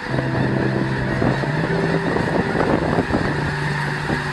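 A large flock of water birds calling at once: a dense, continuous clamour of many overlapping honks and cries.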